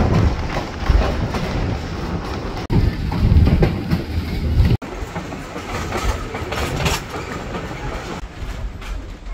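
Heritage steam train running along the track, heard from aboard the carriage as a loud rumble with wheel and rail noise. The sound breaks off abruptly about five seconds in and resumes quieter.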